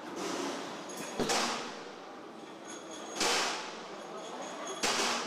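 Engine assembly-line work noise: three sharp metallic knocks, each with a short noisy tail, over a steady factory background.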